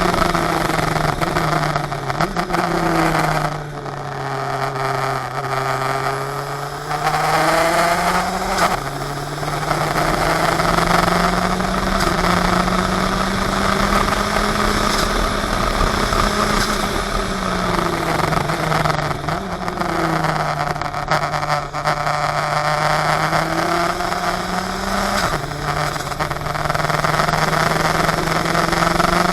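Engine of a 400 hp open-wheel sports car running, heard from the in-car camera. Its note falls slowly twice, each time jumping back up suddenly, about a third of the way in and again near the end, and climbs steadily in between.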